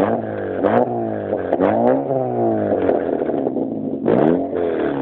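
Lada Vega's engine through an aftermarket SS104 exhaust, revved in repeated throttle blips. The pitch jumps up sharply and sinks back more slowly, about five times.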